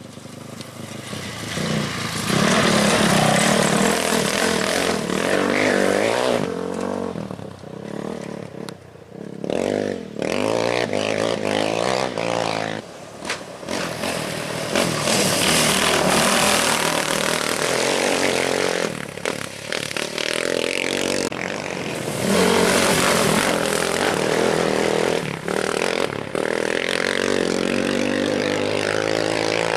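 Off-road race motorcycles and quads passing through a curve one after another, their engines revving hard as they accelerate and fade. The sound cuts off abruptly and starts again several times between passes.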